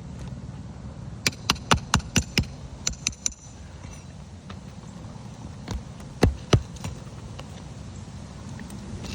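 A quick run of sharp taps and knocks, then a few more, and a pair a few seconds later: a roofing tool working under asphalt shingles to pull out their nails. A steady low rumble runs underneath.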